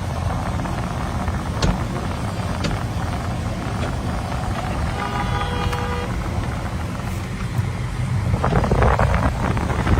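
Steady low rumble of a car driving, with a car horn honking once for about a second midway. A louder rushing noise swells near the end.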